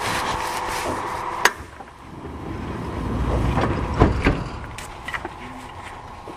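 Kintetsu 1000 series electric train heard from on board as it moves off from a station: a steady hum, a sharp click about a second and a half in, then a low rumble that swells with two knocks near the four-second mark and eases off.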